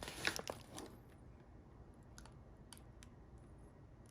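Faint handling noise from the tool's packaging: a few light clicks and rustles in the first second, then scattered soft ticks.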